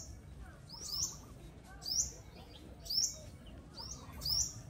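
A bird calling with short, high chirps that drop in pitch, repeated about once a second, some in quick pairs.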